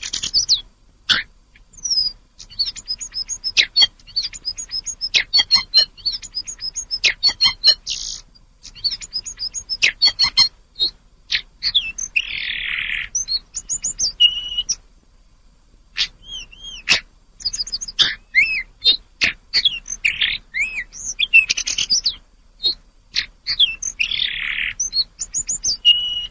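Hill blue flycatcher (tledekan gunung) singing a fast, varied song of high whistled notes and trills, broken twice by a harsh raspy note and by a short pause around the middle.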